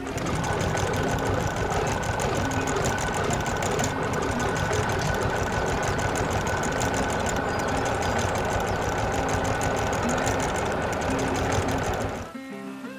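A machine running with a fast, dense mechanical clatter, steady and loud, that cuts off suddenly about twelve seconds in.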